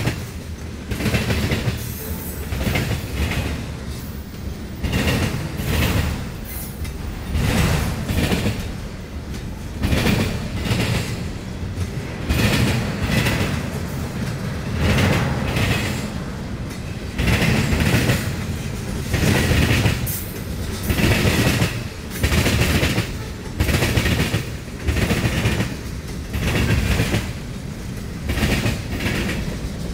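Freight train rolling past, its wagon wheels clattering over the rail joints in an even rhythm of about one clatter a second.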